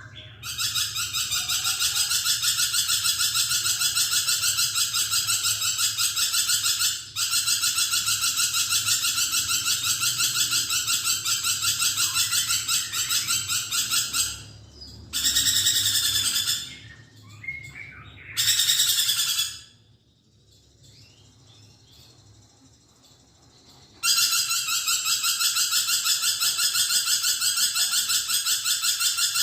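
Lorikeet (nuri perkici) calling in a fast, continuous, shrill chatter. It breaks off briefly a few times, and falls quiet for a few seconds past the middle before starting up again.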